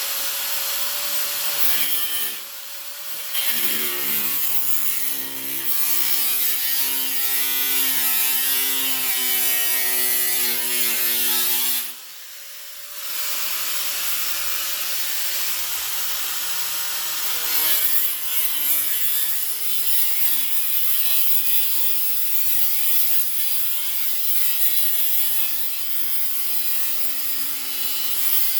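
A high-speed rotary cut-off tool running and cutting through the rusted sheet metal of a car body, its pitch sagging under load. It stops for about a second partway through, then starts up again and cuts on.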